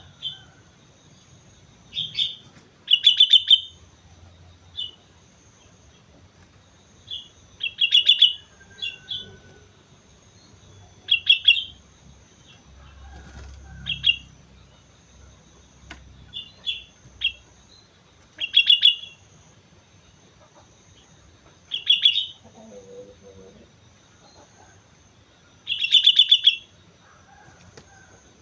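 Sooty-headed bulbul calling: short, loud bursts of rapid chattering notes, repeated every one to four seconds.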